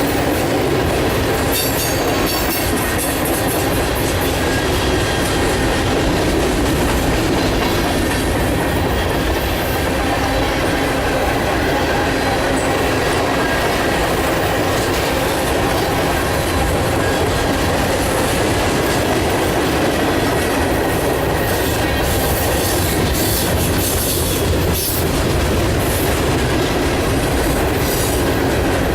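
A long mixed freight train's cars rolling past at close range, a steady loud rumble with wheels clattering over the rails and a faint squeal of wheels against rail.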